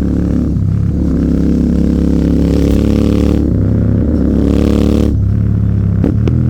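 Royal Enfield Continental GT 650's parallel-twin engine running under way through an aftermarket AEW 103 exhaust. The exhaust note is steady and dips briefly twice, about half a second in and again just after five seconds.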